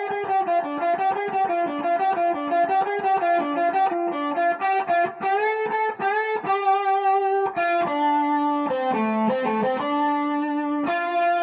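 Electric guitar playing a blues lead phrase in single notes: fast alternating notes for the first half, then a run moving down, settling on a sustained note near the end.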